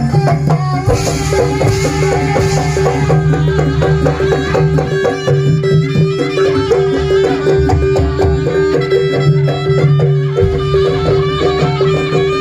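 Jaranan buto ensemble music: a reedy wind melody over quick, dense drum strokes and a steady held tone.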